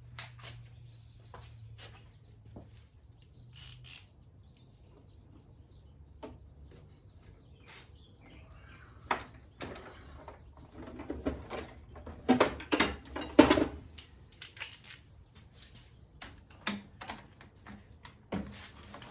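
Hand tools and metal fork parts clinking and clanking during motorcycle fork reassembly: irregular sharp knocks and clicks with a few short squeaks, the busiest and loudest run of knocks a little past the middle.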